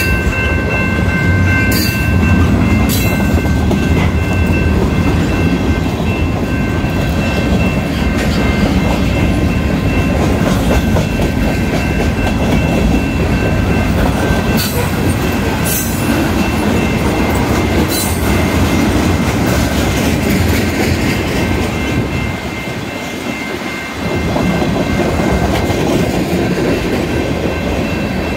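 Freight cars of a long mixed train rolling past: a steady heavy rumble of steel wheels on rail, with sharp clanks from the wheels and couplers a few times. A steady high ringing from the level crossing's warning bell sounds over it. The rumble eases for about two seconds near the end.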